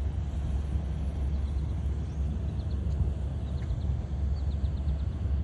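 A steady low rumble outdoors, with faint short chirps of small birds coming in small clusters over it.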